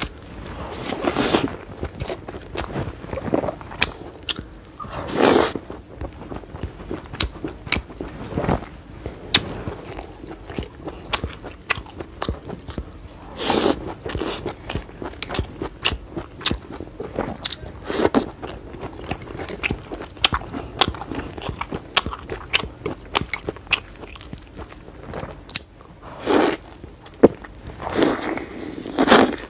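A person biting and chewing pieces of fried food: a steady run of small wet mouth clicks and smacks, with a louder mouthful every few seconds.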